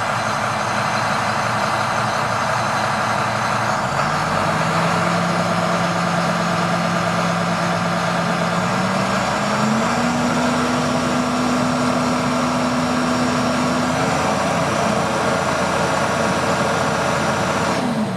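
International DT466 inline-six diesel running in a 2007 International 4300 box truck. Its engine speed is raised in two steps, about 4 s in and about 10 s in, held steady, then drops back near the end.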